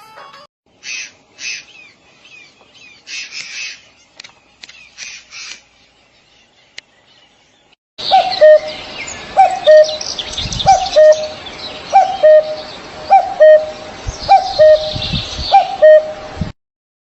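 Birds chirping: scattered high-pitched chirps for about eight seconds. Then, after a sudden jump in loudness, a low call repeats about every 0.7 s over a busy background of chirping, stopping abruptly shortly before the end.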